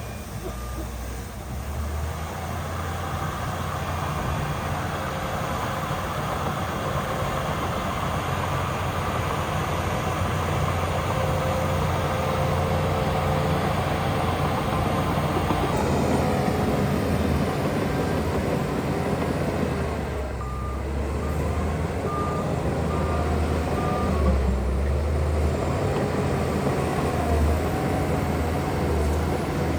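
Heavy diesel earthmoving machinery (bulldozer and dump trucks) running steadily under load, with a reversing alarm giving a short run of evenly spaced beeps about two-thirds of the way through.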